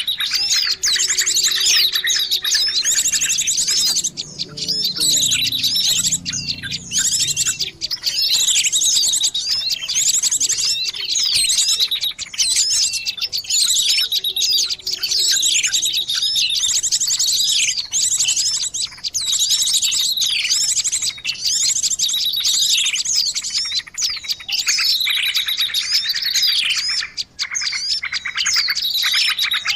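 Small birds chirping and trilling in dense, rapid, overlapping calls that never stop: a bird-lure call recording used to draw birds in to perch at a trap.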